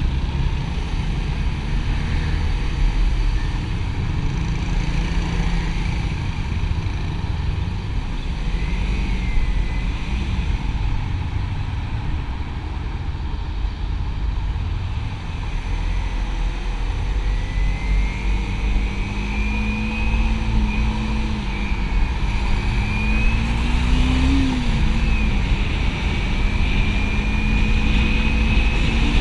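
Motorcycle engine running at road speed, under a heavy low rumble of road and wind noise. In the second half the engine note rises and dips as it speeds up and eases off.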